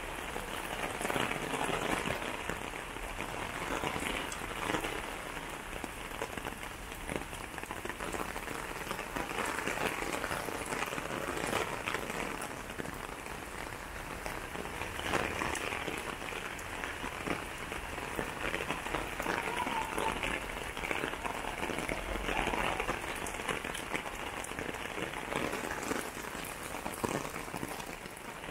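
Steady rain falling, a dense patter of drops hitting nearby surfaces.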